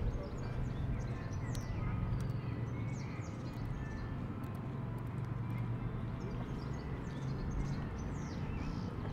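Many small birds chirping, short high falling calls scattered throughout, over a steady low rumble of outdoor background noise.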